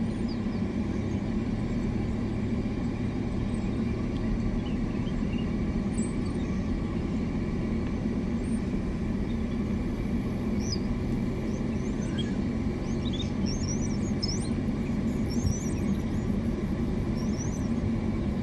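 A vehicle engine idling steadily with a low, even rumble, with faint high chirps of birds from about six seconds in.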